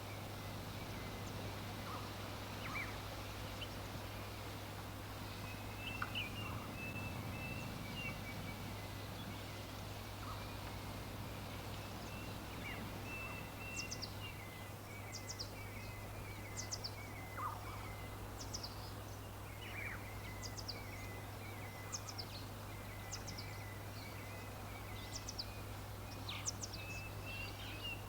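Wild birds calling: scattered short, high, downward-sweeping chirps and runs of quick chattering notes, over a steady background hiss with a constant low hum.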